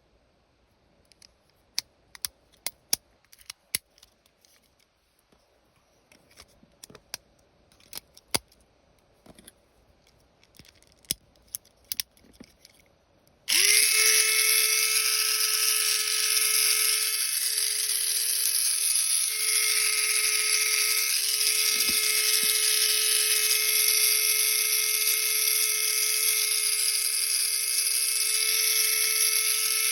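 A series of light, sharp clicks, then, about halfway, a Tamiya Mini 4WD MS chassis's small electric motor and gear train switch on and run at a steady high whine with a dense high-pitched gear rasp.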